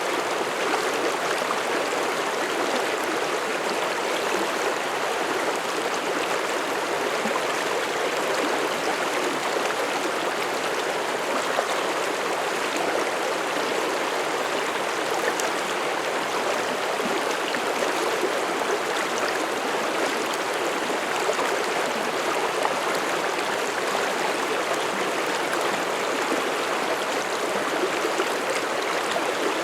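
Mountain stream flowing and babbling over rocks, a steady, unbroken rush of water.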